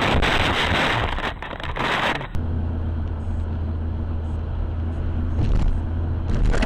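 Car driving noise as picked up by a dashcam: loud road and engine noise, which cuts off abruptly about two seconds in and gives way to a steady low engine drone.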